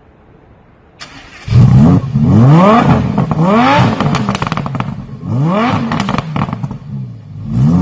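Loud car exhaust revving repeatedly. The engine note rises in pitch with each blip of the throttle, and crackling pops come between the revs. It starts after a quiet first second.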